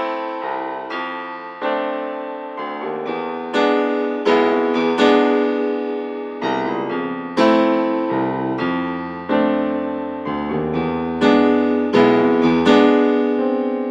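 Solo piano music: slow chords, each struck and left to ring out, about one or two a second.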